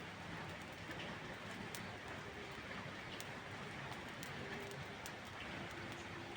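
Steady rain falling, with scattered sharp clicks through it.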